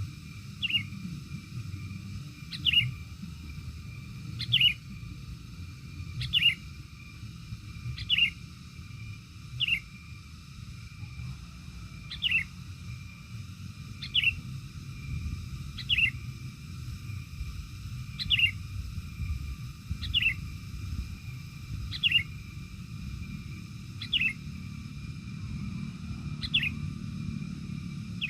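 A bird giving the same short, sharp, downward-sweeping call over and over, about once every two seconds, over a steady low rumble.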